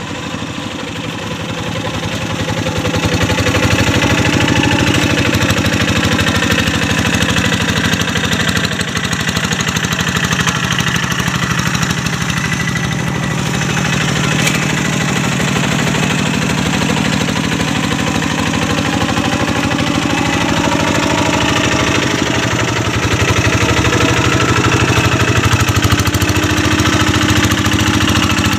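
Single-cylinder Kubota diesel engine of a Quick G1000 Boxer two-wheel hand tractor running steadily while plowing a rice paddy. It gets louder about three seconds in, and its pitch wavers slightly with the load.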